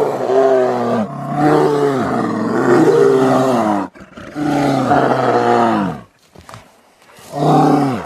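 Brown bear roaring: a long roar of about four seconds, a shorter one of about two seconds, and a third starting near the end, each falling in pitch as it ends.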